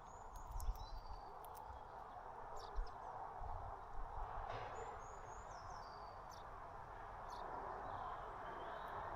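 Small songbirds at a feeder giving short, high, falling chirps in two brief runs, about a second in and again about five seconds in. A few clicks and low thumps sound over a steady background hiss.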